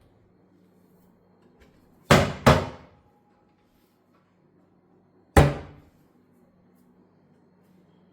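Kitchen cabinet doors being shut: two thumps about half a second apart about two seconds in, then one more about five seconds in, each dying away quickly. A faint steady hum sits underneath.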